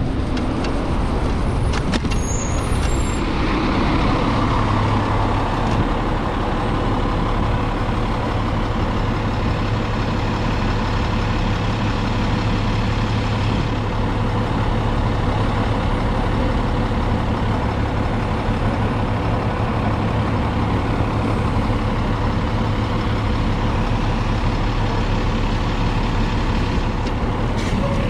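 Steady street-traffic and wind noise while riding, with a garbage truck's diesel engine running close by in a steady low hum. A few brief high squeals come about two to three seconds in.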